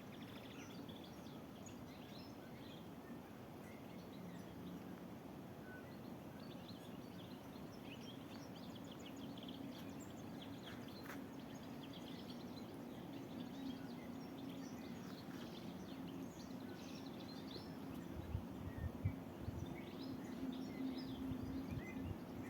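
Several small birds singing and chirping in a spring forest, many short high calls scattered throughout, over a steady low background hum. A few brief low thuds come near the end.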